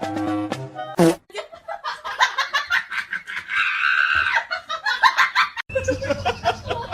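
People laughing in short choppy bursts, with a louder noisy cry partway through. Before the laughter, about a second of background music cuts off sharply, and near the end another sharp cut brings in a different clip.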